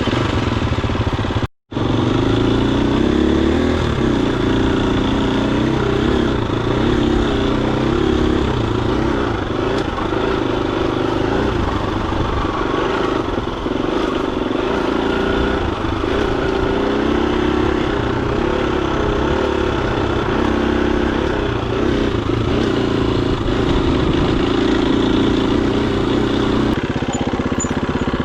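Husqvarna FE250 dirt bike's single-cylinder four-stroke engine running under way, its pitch rising and falling with the throttle. The sound cuts out briefly about a second and a half in, and near the end the engine settles to a lower, steadier note.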